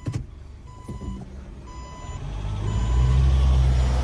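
A four-wheel-drive vehicle's engine revving up hard under load from about two seconds in, trying to drag a towed caravan out of a water-filled hole on a steeply tilted track. Before it, a click and two short electronic beeps from the vehicle's warning system.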